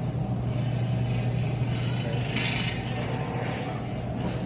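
Steady low hum of a big store's background noise, with a brief hissing rattle about halfway through.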